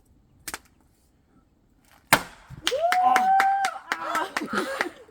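An axe strikes a log once with a sharp crack about two seconds in, after a lighter knock near the start. A long whooping cry follows, with a quick run of sharp clicks.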